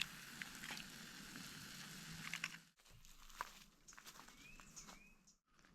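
Faint forest ambience: a steady high hiss with scattered light clicks, then a short two-part whistled call. The sound cuts out abruptly about halfway through and again near the end.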